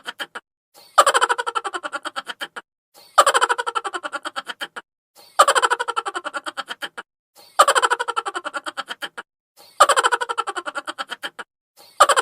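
High-pitched chipmunk-style cartoon laugh sound effect, looped: a quick run of 'ha-ha-ha' pulses that starts loud, falls a little in pitch and fades, repeating about every two seconds, five times over with a sixth beginning near the end.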